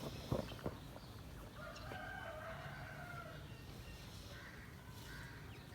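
A rooster crowing once, faintly, a long drawn-out crow starting about a second in, after a couple of light knocks.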